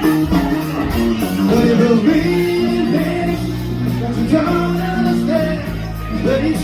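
Live rock band playing, with sung vocals over electric guitar, bass and drums.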